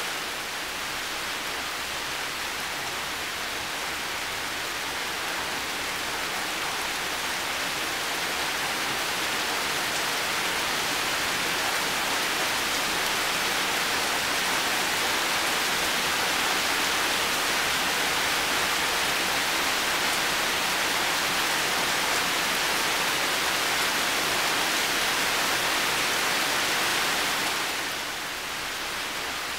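Heavy rain falling steadily: a dense, even hiss of rain with no single drops standing out. It swells slightly through the middle and dips a little near the end.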